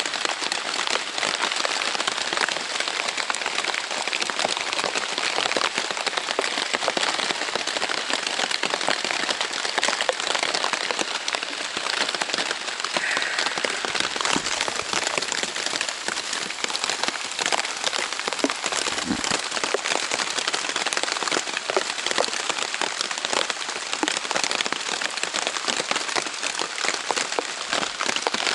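Heavy rain pelting the Dyneema fabric of a Zpacks Plexamid tent: a steady, dense hiss full of sharp drop impacts, keeping an even level throughout.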